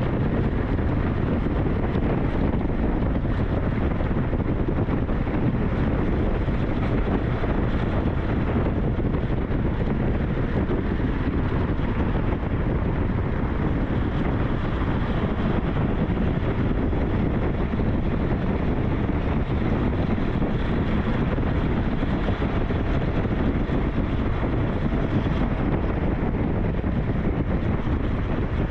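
Steady riding noise from a SYM NH T 200 motorcycle on the move: wind buffeting the microphone over the machine's running engine.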